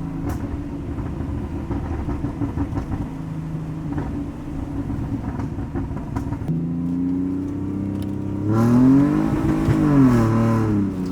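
Car engine running with a rough, uneven note, then revving up and back down about nine seconds in.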